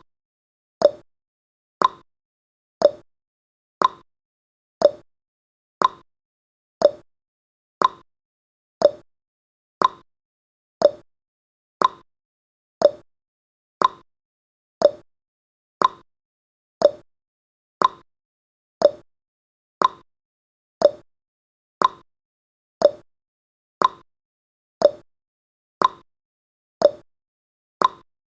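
Countdown timer's clock-tick sound effect: a short, sharp tick once a second, steady and even.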